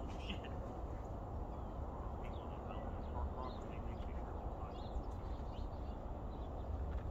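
Short, scattered bird chirps over a steady low rumble.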